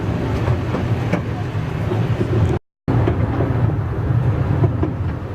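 Narrow-gauge railway carriage running along the track, heard from on board: a steady low rumble with light wheel clatter. It cuts out abruptly for a moment about halfway through, then resumes.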